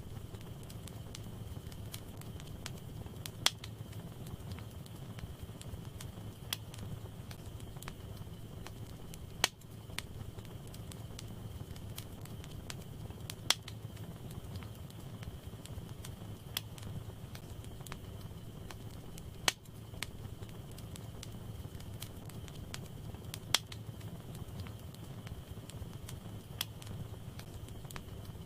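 Wood fire burning in a fireplace: sharp single pops from the burning logs every three to four seconds over a steady low rush of flame.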